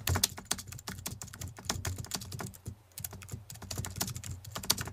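Rapid, irregular clicking and tapping, many sharp clicks a second, broken by a brief lull about two and a half seconds in.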